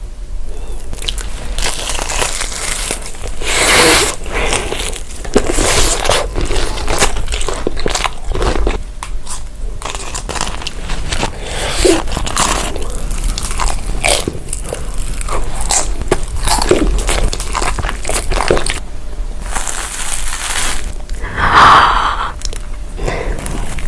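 A person eating samgyupsal, grilled pork belly, close to the microphone: irregular, loud crisp bites and crunches with wet chewing.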